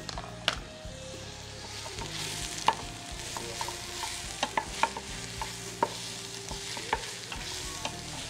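Onions, carrots and mushrooms sizzling as they sauté in a stainless steel pot, stirred with a spoon. Sharp clicks sound throughout as the spoon knocks and scrapes against the pot.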